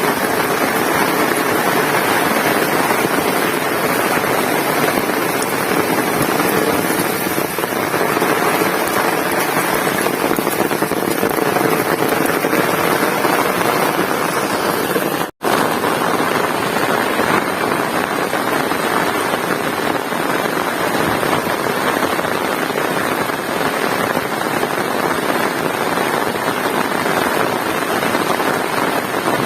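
Heavy rain falling steadily, a dense continuous hiss, cut off for a split second about halfway through.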